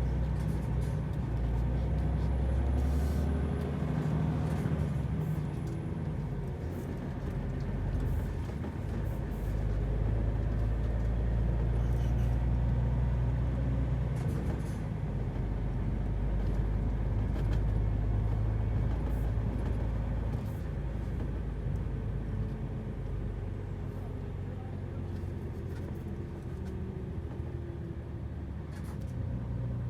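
MAN truck's diesel engine running under light load as it drives down a ramp, its deep note swelling and easing several times.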